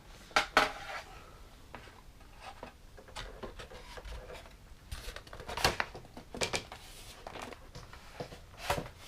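Scattered sharp clicks and knocks with light rustling: the parts of a model glider being handled as its wing is fitted.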